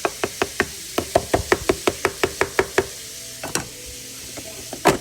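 A rapid run of sharp knocks, about six a second for nearly three seconds, followed by two more single knocks, the last one the loudest.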